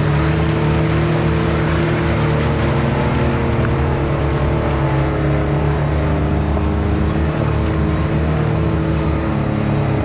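Off-road vehicle engine running steadily at a low, even speed, its pitch holding constant throughout.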